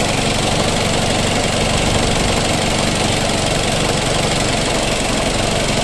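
Perodua Myvi engine idling steadily, heard close up in the open engine bay. It is left running with the radiator cap off so that fresh coolant is drawn into the engine block during a coolant flush.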